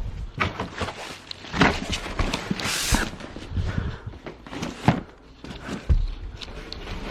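Scattered knocks and clicks from office-chair parts and packaging being handled during unboxing, with a short burst of rustling about three seconds in.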